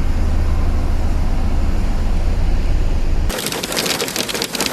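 A loud, steady low rumble with noise over it. About three seconds in it cuts abruptly to a dense, rapid pattering of storm rain and hail striking a surface.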